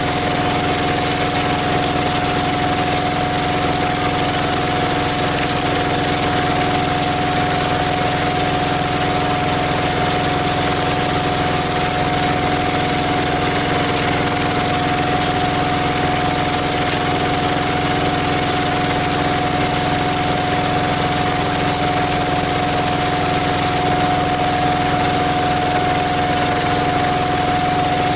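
Walking tractor's single-cylinder diesel engine running steadily at constant speed, with a steady whine on top.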